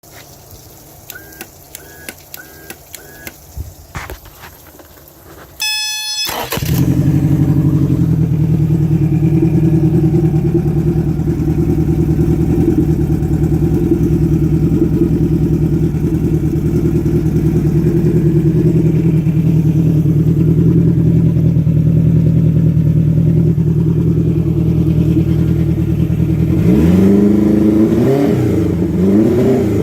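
Yamaha 80 hp four-stroke outboard (inline four-cylinder, 1,832 cc) being started: a few short beeps and clicks, a brief crank, then the engine catches about six seconds in and idles steadily. Near the end it is revved up and down several times.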